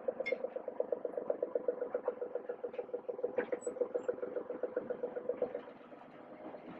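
Class 31 diesel locomotive's engine running with a fast, even beat of about eight pulses a second, which eases off about five and a half seconds in.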